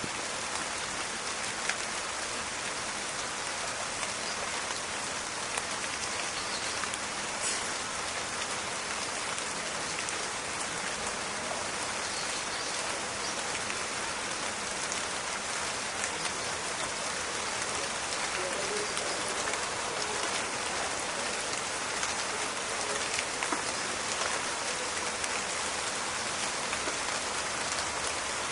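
Steady rain falling in a forest, a dense patter of drops with a crackling quality and now and then a single louder drop.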